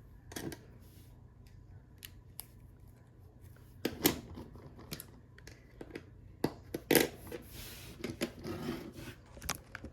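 Hard plastic parts of a Transformers Sandstorm action figure clicking and knocking as it is handled and transformed by hand, with sharper clicks about four and seven seconds in and a brief rustle of handling just after.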